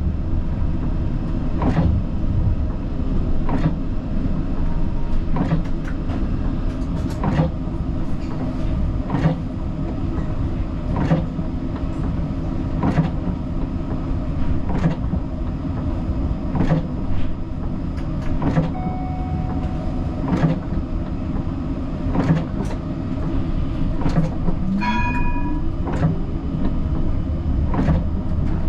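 Siemens Combino tram running on its rails, heard from the driver's cab: a steady rumble with a sharp click about every two seconds. About twenty-five seconds in, a short ringing tone sounds over a rising whine.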